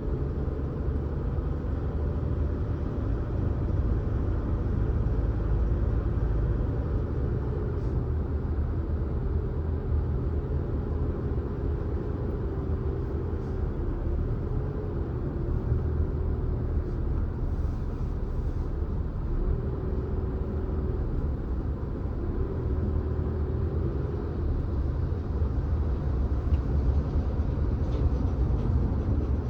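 Car driving along a road: a steady low rumble of road and engine noise, with a faint engine tone that rises and falls with speed.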